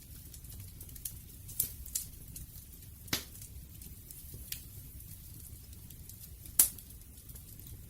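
Wood fire burning: irregular crackles and sharp pops over a low, steady rumble of the flames. The loudest pop comes near the end.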